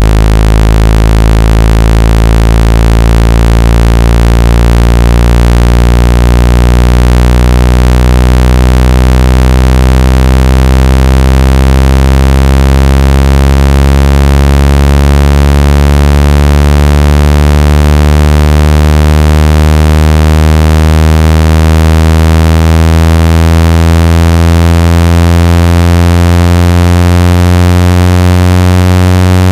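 Loud, buzzy synthetic low tone with many overtones, its pitch gliding slowly upward: a speaker water-ejection tone, played to shake trapped water out of a phone or earphone speaker.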